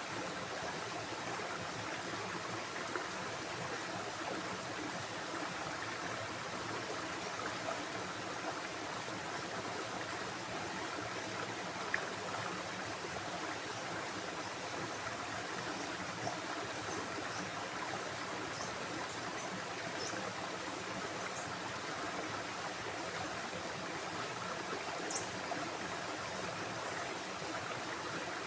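A steady rush of flowing water, like a stream running over rocks. A few faint, short, high chirps come in over it in the second half.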